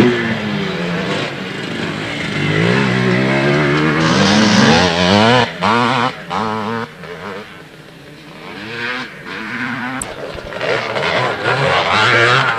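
Motocross motorcycle engines revving up and down, pitch rising and falling with quick throttle cuts in the middle, fading briefly and then getting louder again near the end.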